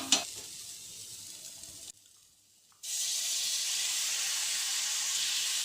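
Marinated chicken sizzling in a hot karahi with browned onions, cooked without oil: an even hiss that drops out for about a second, then comes back steady and louder.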